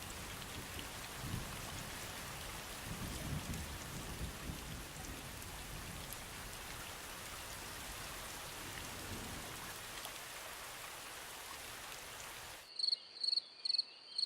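Steady rain falling, with a few low rumbles in the first few seconds. A little over a second before the end the rain cuts off abruptly and a cricket starts chirping, about two chirps a second.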